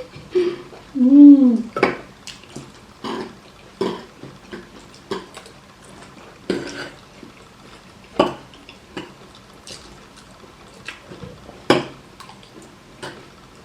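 Spoons and cutlery clinking and scraping against plates as people eat abacha, in short scattered clicks throughout. About a second in there is a brief, louder voiced murmur with a wavering pitch.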